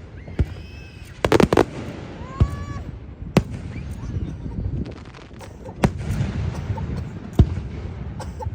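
Fireworks display: sharp bangs of bursting shells at irregular intervals, with a quick run of several bangs just over a second in and single bangs a few seconds apart after that.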